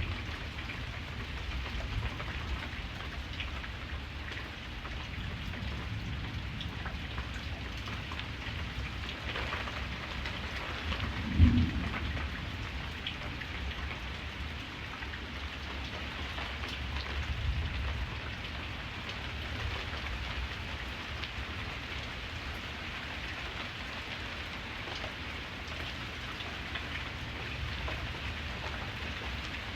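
Steady rain falling, with a short low rumble of thunder about a third of the way in, the loudest moment, and a fainter rumble a few seconds later.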